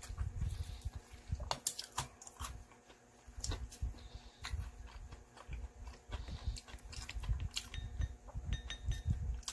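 Close-up chewing and lip-smacking of a Korean potato pancake, in irregular wet bites, with a few sharp clicks of wooden chopsticks against the plate and the soy-sauce bowl.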